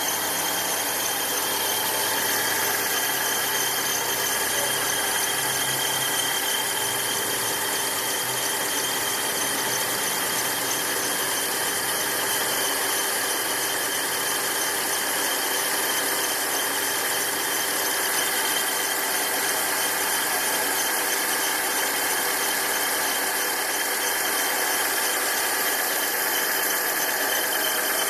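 Fiat Novo Uno Vivace engine idling with a steady high-pitched squeal over the running. It is a noise that comes only when the engine is fully cold and goes away once it warms up.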